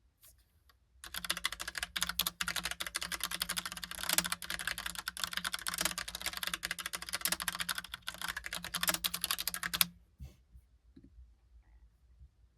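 Fast, continuous typing on a Logitech Pop Keys mechanical keyboard with round typewriter-style keycaps: a dense run of key clicks that starts about a second in and stops abruptly near the end, followed by a few faint clicks.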